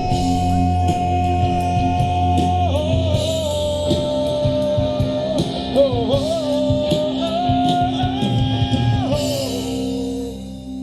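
Live rock band playing. A singer holds one long note and then sings a wavering line without words, over bass and drums with steady cymbal strokes. The band thins out and the level drops near the end.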